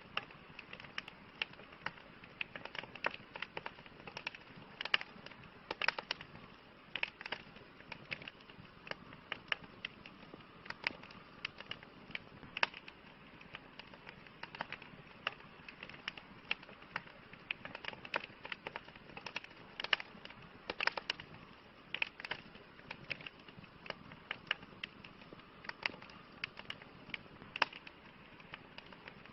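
Campfire burning with irregular crackles and snaps, several a second and some louder than others, over a soft steady hiss.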